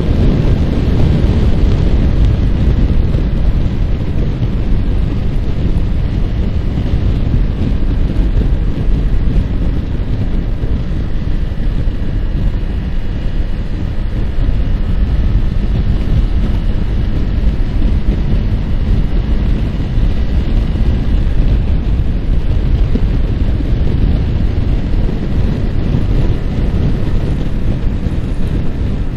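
Heavy wind buffeting on the microphone from riding at speed, with a Yamaha R15's single-cylinder engine running steadily underneath.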